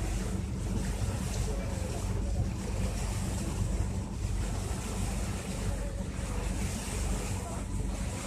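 Wind buffeting the microphone over rushing sea water on a moving motor boat, with a steady low engine drone underneath.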